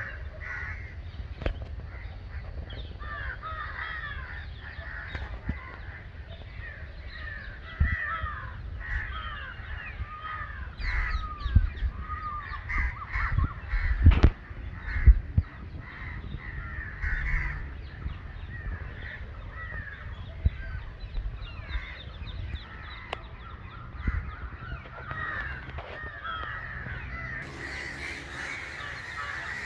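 Many crows cawing at once, the calls overlapping continuously. Under them is a low rumble on the microphone, and several loud knocks come around the middle.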